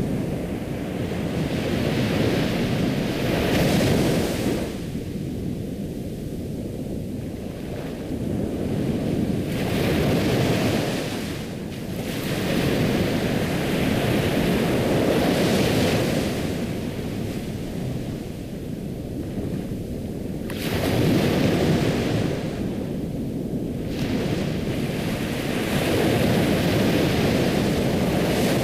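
Ocean surf, waves washing in and drawing back, the rush swelling and easing every few seconds.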